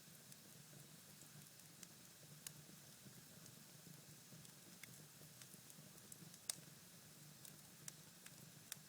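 Cherry-wood fire burning in a fireplace: a faint hiss with scattered small crackles and pops, the loudest about six and a half seconds in.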